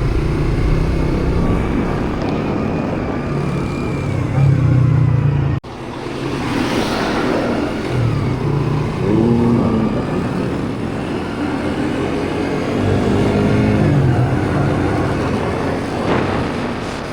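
Motorbike engine running on the road under heavy wind rush, its pitch shifting up and down with the throttle. The sound cuts out briefly about five and a half seconds in, then resumes.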